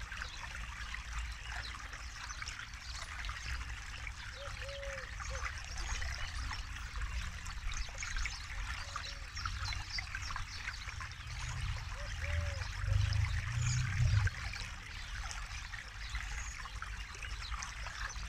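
Forest river flowing with a steady trickling of water. A deeper low rumble swells briefly about two-thirds of the way in.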